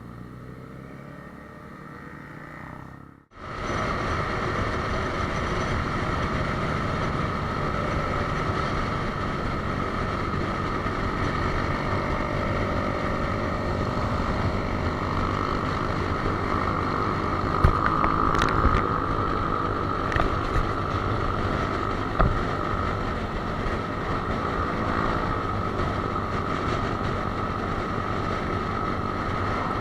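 A moving vehicle running steadily, with wind noise, starting abruptly about three seconds in after a quieter stretch. A few short knocks come near the middle.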